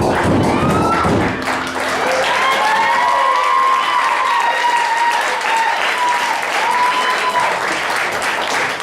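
Audience applauding at the end of a stage act, the last of the music dying away in the first second or two.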